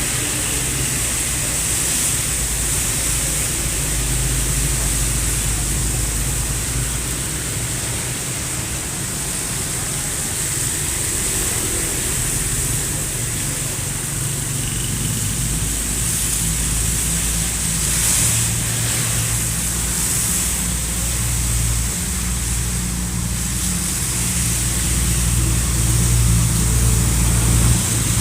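Heavy diesel truck engine running at low revs, a steady low drone with a constant hiss over it, growing a little louder near the end.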